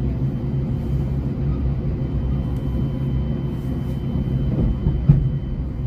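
Steady low rumble of a moving train heard from inside the carriage, with one sharp knock about five seconds in.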